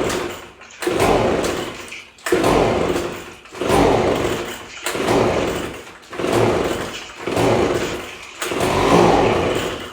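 Echo PB-250LN two-stroke handheld leaf blower being pull-started: about seven pulls on the recoil starter cord, one every second and a bit, each a sharp whirr that fades, with the cold engine cranking but not catching.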